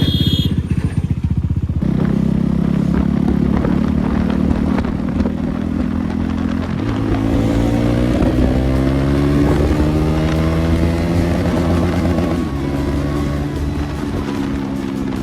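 KTM 390 Duke single-cylinder engine running with no exhaust silencer fitted, ridden on the road. The pitch drops about two seconds in, climbs steadily as the bike accelerates from about seven seconds in, and drops again near the end.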